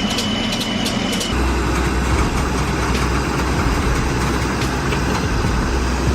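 Heavy machine engine running steadily with a deep low rumble. The sound changes abruptly about a second in.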